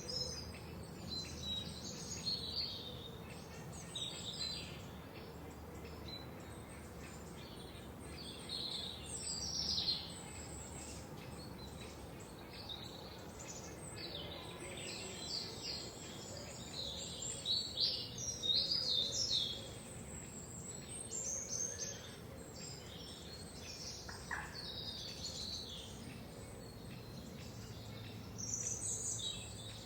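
Several songbirds chirping and trilling in a forest, short high calls in irregular flurries, busiest a little past the middle, over a faint steady background hiss.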